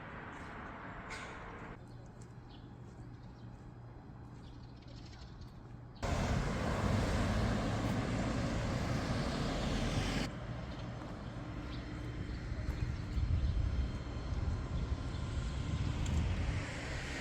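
Motorbike ride sound: a low engine hum with wind rushing over the microphone. The level changes abruptly about 2, 6 and 10 seconds in and is loudest between 6 and 10 seconds.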